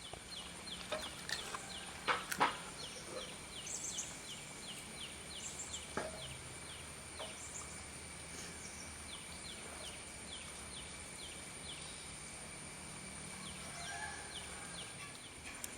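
A bird calling in a long run of short, falling chirps, about two or three a second, over a steady high-pitched whine. A few sharp clicks come about two seconds in.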